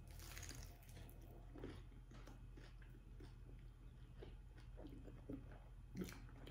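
Faint chewing of a mouthful of pepperoni pizza, a run of soft mouth clicks, with one slightly louder click near the end.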